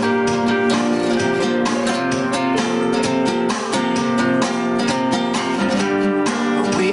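Strummed acoustic guitar music with quick, rhythmic strokes.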